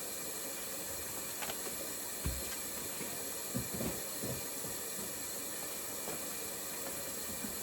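Steady hiss with a few faint knocks, about two, three and a half and four seconds in.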